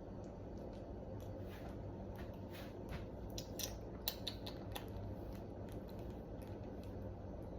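A loose run of short, sharp clicks and ticks from a baby lovebird being hand-fed, loudest about four seconds in, over a steady low hum.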